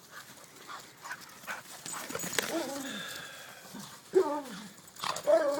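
Dogs roughhousing in play. There are scattered scuffling clicks, and one dog's drawn-out vocal cries slide in pitch, twice in the middle and again near the end. This is the noise an older dog makes as he jumps into the play-fight to try to break it up.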